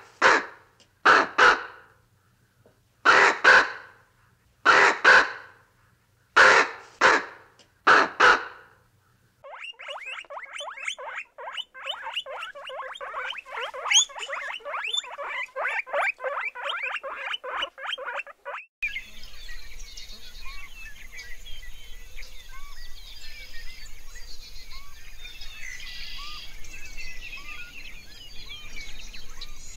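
Ravens giving a run of loud, harsh calls through the first third. Then a group of guinea pigs squeaking in rapid, continuous chatter, followed in the last third by quieter outdoor background with small bird chirps over a low steady hum.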